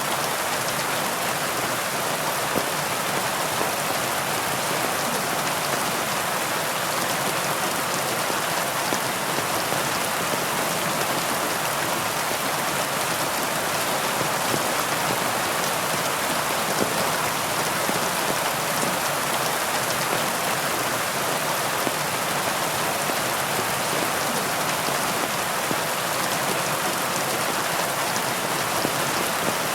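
Heavy rain falling steadily: a dense, even hiss of countless drops, with no thunder and no rise or fall.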